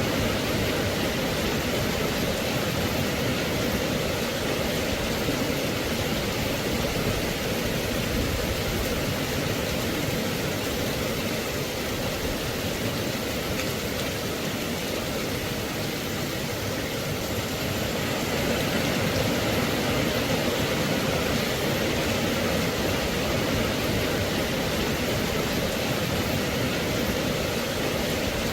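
Steady rain falling, a continuous even hiss of many drops with no distinct hits, holding at one level throughout.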